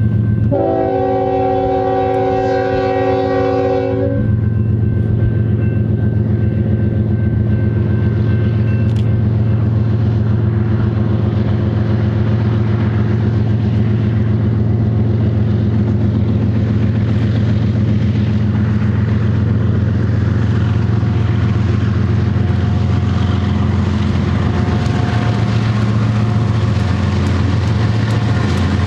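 Freight diesel locomotive air horn sounding one long chord of several notes for about three and a half seconds, then the lead GE diesel locomotives' engines running steadily under power as they pass, with wheel and rail noise from the double-stack container cars growing near the end.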